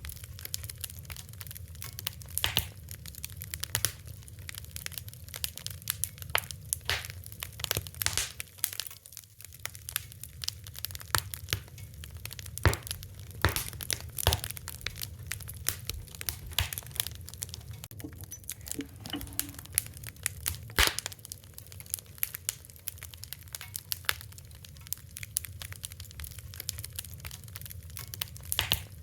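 Fire crackling: dense, irregular sharp pops and snaps, a few much louder ones about 13 and 21 seconds in, over a steady low rumble.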